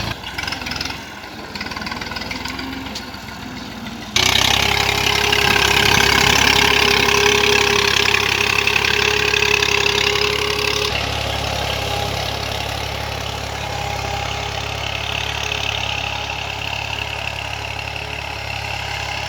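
Tractor's diesel engine running steadily. About four seconds in it suddenly gets louder with a rushing, noisy edge, then eases back a little around eleven seconds.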